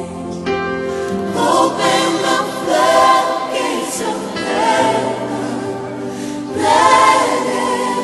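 A choir singing long held notes over a band, playing contemporary Christian worship music. The music swells twice.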